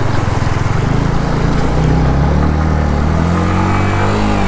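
Yamaha MT-15's 155 cc single-cylinder engine pulling under throttle, the revs rising for a few seconds, then easing off near the end.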